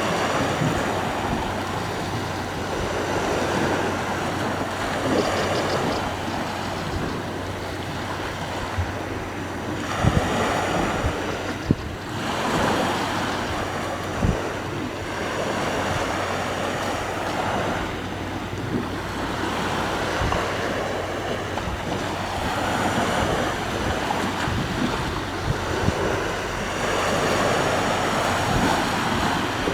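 Sea waves breaking and washing on the shore, swelling and easing every few seconds, with wind buffeting the microphone and a few short knocks.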